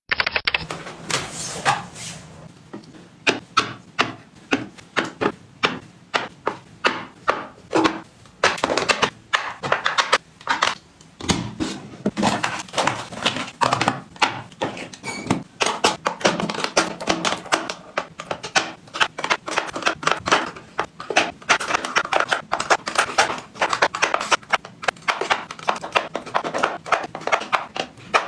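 Products and containers being handled and set down: an irregular, rapid run of taps, clicks and knocks, several a second.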